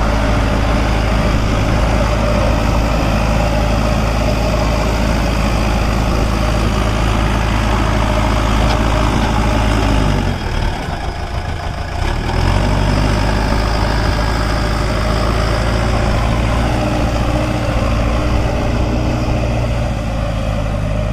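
Heavy diesel engine running steadily. About halfway through its revs drop for about two seconds, then pick back up.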